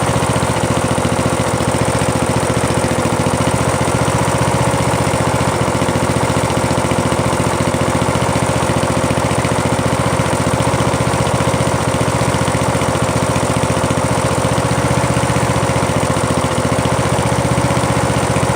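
Poulan lawn tractor engine running steadily, freshly started after sitting through the winter.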